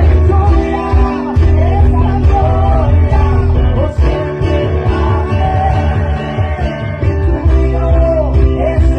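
Live worship music: held chords over deep sustained bass notes, with a voice singing freely on top.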